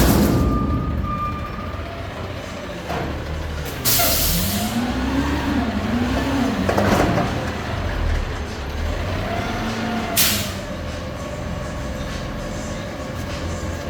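Garbage truck running with a steady low engine rumble. Sharp air hisses come at the start, about four seconds in and about ten seconds in, and a whine rises and falls in pitch several times between them.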